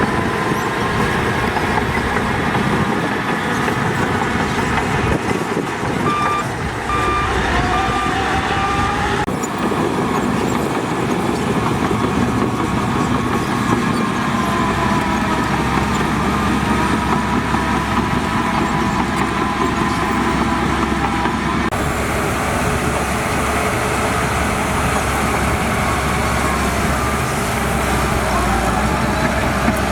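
Heavy diesel earthmoving machinery, bulldozer and dump trucks, running steadily with a wavering whine. A few short beeps come about six to eight seconds in, and the sound changes abruptly about nine and twenty-two seconds in.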